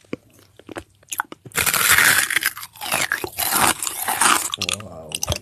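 Close-miked eating: crunchy biting and chewing of food. A few small mouth clicks, then about three seconds of loud, dense crunching in the middle, easing to softer chewing near the end.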